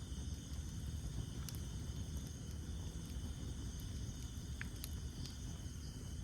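Campfire of burning wood with a low steady rumble and a few sharp crackles, over a steady chorus of night insects.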